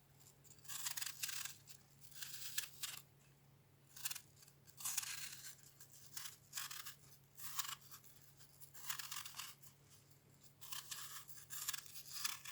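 Kitchen knife of 65Х13 steel cutting and shaving peel off produce in a series of short, scraping strokes, about a dozen, irregularly spaced, over a steady low electrical hum.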